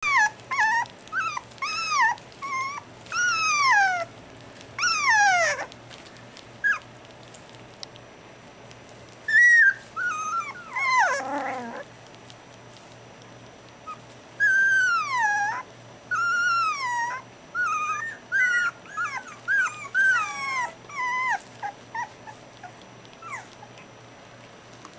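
A dog whining and whimpering in a long series of short, high-pitched calls, most sliding down in pitch, in bouts separated by brief pauses.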